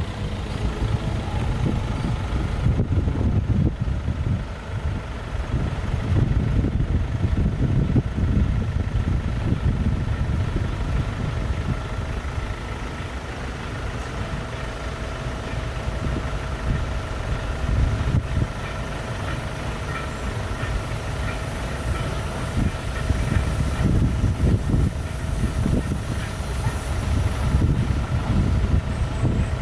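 A vehicle engine running steadily with a heavy low rumble that swells and eases, and a faint steady whine above it.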